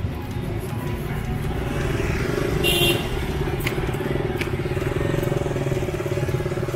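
Motorcycle engine of a Philippine tricycle running steadily during a ride, with a short sharp high sound a little under three seconds in.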